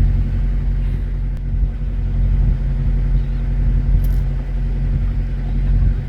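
Narrowboat's diesel engine running steadily under way, a loud, even low drone.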